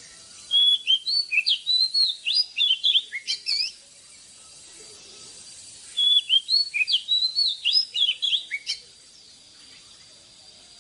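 Oriental magpie-robin singing: two phrases of rapid, varied whistled notes, each about three seconds long, with a pause between them.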